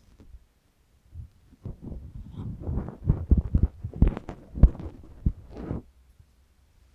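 Close handling noise right against the microphone: a cluster of low thumps and rustling scrapes over about four seconds, much louder than the faint surrounding sounds, ending about a second before the end.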